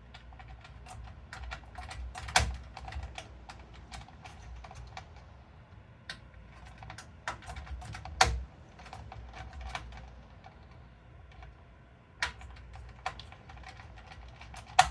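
Irregular small clicks and taps of screws and a screwdriver being worked against a computer case and motherboard. Sharper knocks come about two, eight and twelve seconds in, and again at the very end.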